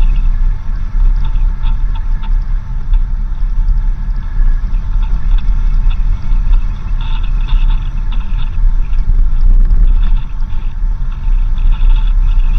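A vehicle driving on a dirt road: a heavy, steady low rumble of engine and tyres, with frequent small rattles and ticks over it.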